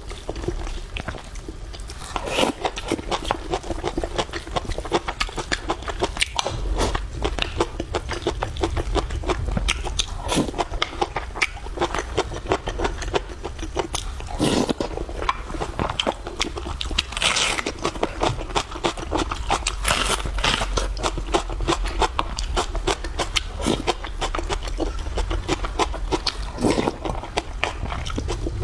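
A person eating close to the microphone: chewing and lip-smacking with a dense, continuous run of wet clicks, broken by a few louder, longer bursts.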